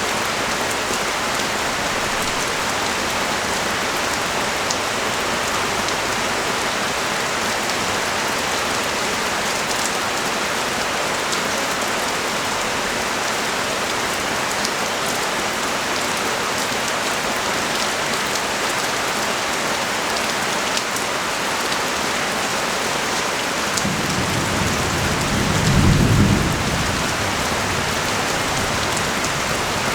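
Steady rain falling on the street and nearby surfaces. About three-quarters of the way through, a low rumble of thunder swells for a few seconds and fades.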